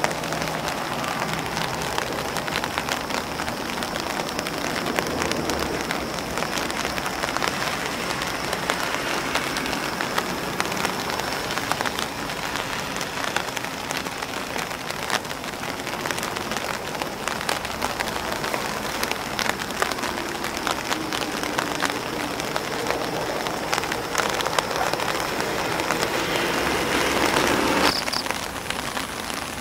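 Steady rain pattering on an umbrella and on grass blades, a dense hiss with many single drops ticking through it. It swells slightly near the end, then drops back suddenly about 28 seconds in.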